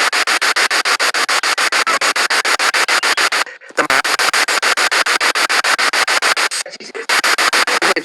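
Spirit box sweeping through radio stations: hissing static chopped into rapid even pulses, about ten a second, with two brief dropouts.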